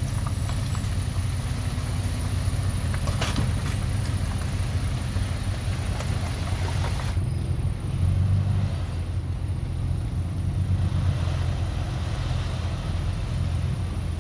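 Dump truck engine running steadily at a low hum, with a few clicks about three seconds in and a brief swell in level about eight seconds in.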